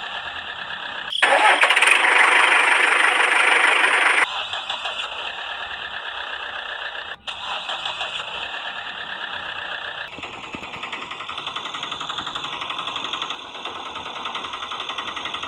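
A small motor running with a fast, rattly whir, much louder for about three seconds starting a second in, then settling back to a steadier running sound.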